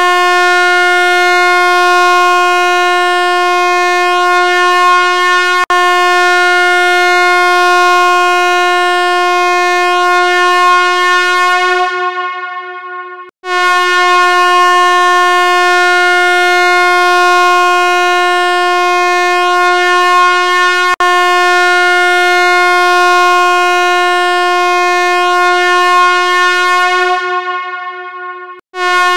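A long, loud buzzy tone held at one steady pitch for about thirteen seconds, fading out, then starting again and held as long once more. A faint click comes in the middle of each.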